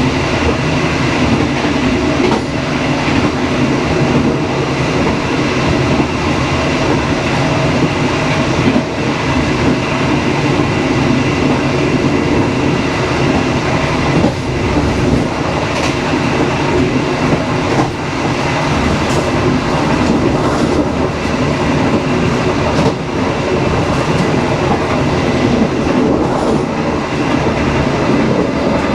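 Dharmawangsa passenger train running along the line: a steady rumble and rush of wheels on the rails, with a few faint knocks here and there.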